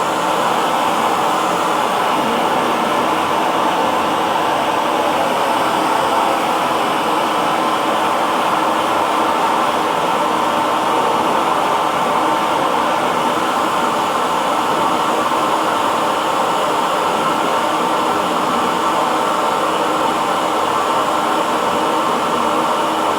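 Electric hair dryer running steadily: an even, unchanging blowing whoosh with a faint motor hum.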